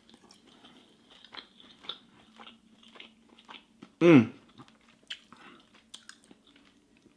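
A person chewing a mouthful of chicken tender close to the microphone, with soft wet clicks of the mouth. About four seconds in there is one short, falling "mm" of approval.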